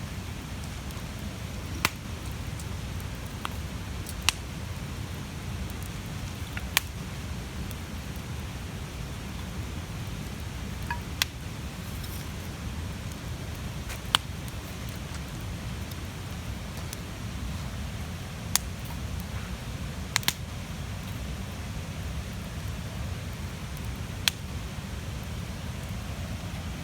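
Large wood campfire burning with a steady low rush of flames, and sharp pops and cracks of burning wood every few seconds.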